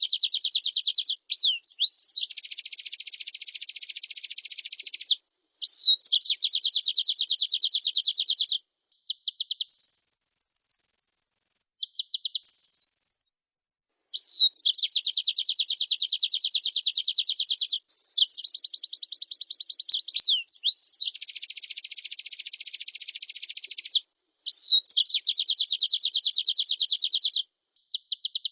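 Pleci (white-eye) singing a run of fast, rapid trills in phrases of a few seconds, linked by quick rising and falling slurs. About ten seconds in come two very high, buzzy bursts, typical of the insect-like fill-in phrases of a well-conditioned ('gacor') pleci.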